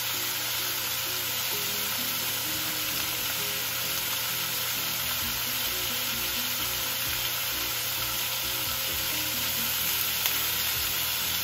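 Chicken wings and ginger slices sizzling steadily in hot oil in a stainless-steel pan, skin side down. A light tap near the end as chopsticks reach into the pan.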